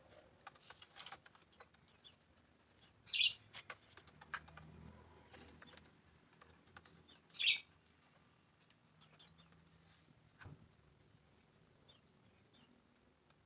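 Small birds chirping faintly, with two louder chirps a few seconds apart and scattered light clicks among them.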